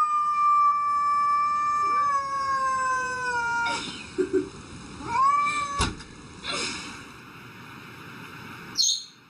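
A cat yowling one long, drawn-out meow that slowly falls in pitch, then a short meow about five seconds in, followed by a sharp knock.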